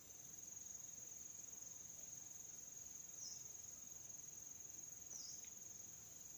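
Faint, steady, high-pitched insect trill, its pitch dipping briefly twice.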